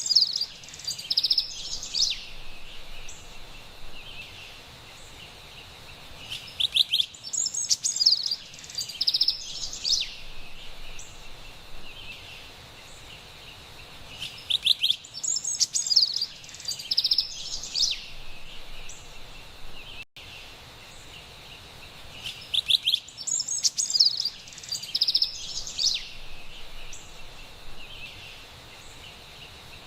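Carolina wren singing: a bright, high burst of song about every eight seconds, over a faint steady forest background hiss.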